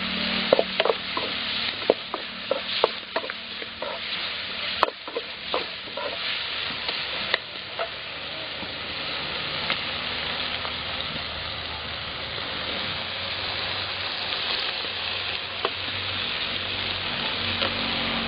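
Chopped tomatoes and onions sizzling in oil in a metal kadai. A slotted steel spoon scrapes and clinks against the pan in quick strokes for the first several seconds, then the sizzling carries on steadily by itself.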